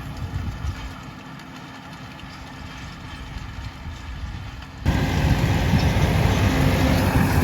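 New Holland T5.90 tractor's diesel engine running steadily. About two-thirds of the way through, the sound jumps suddenly louder and rougher.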